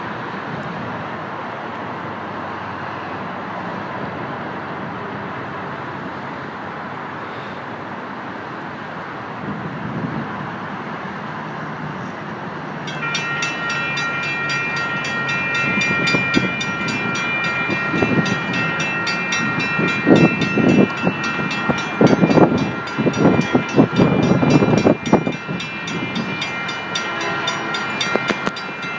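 Strong wind buffeting the microphone. About halfway through, a freight train locomotive's horn starts sounding a steady multi-note chord, while the train's rumble and loud wind gusts build beneath it as the train approaches.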